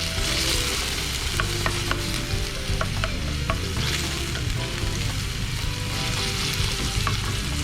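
Whole peeled tomatoes sizzling in hot olive oil with garlic and chili in a pan as they are crushed and stirred, with a steady sizzle and scattered light clicks of the utensil against the pan.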